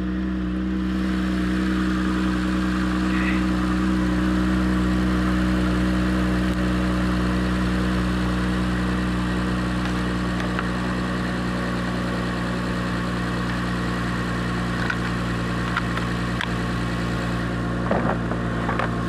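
Car engine idling steadily, just started on a battery that had gone flat and been recharged for about an hour.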